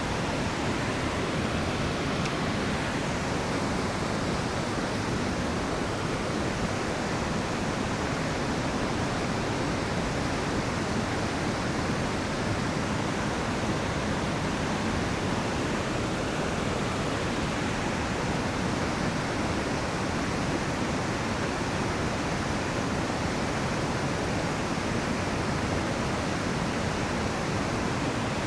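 A river's rushing water: a steady, unbroken rush.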